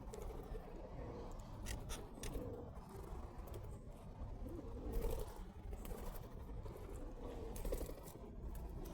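Pigeons cooing in low, curving calls repeated every second or so, with a few sharp clicks.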